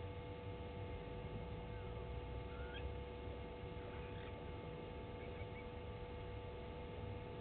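A few faint, short rising bird chirps over a steady hum and low rumble.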